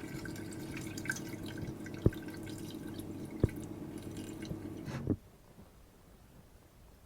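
Water running and splashing from a tap, with two sharp knocks in the middle, cutting off suddenly about five seconds in.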